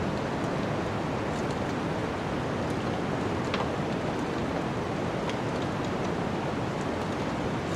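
Wood fire crackling, with scattered sharp pops, over a steady rushing noise of snowstorm wind.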